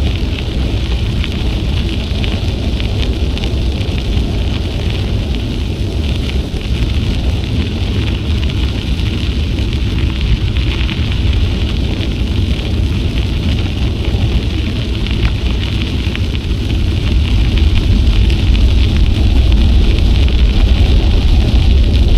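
Wind buffeting an action camera's microphone on a moving bicycle: a steady low rumble with a rushing hiss above it, growing louder near the end.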